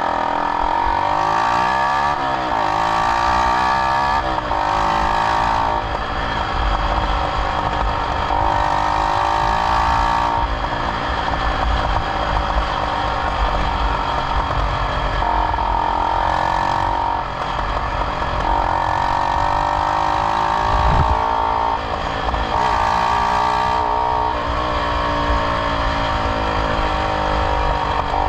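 A Yamaha YZF-R125's single-cylinder 125 cc four-stroke engine revving through its exhaust, its pitch rising and falling again and again.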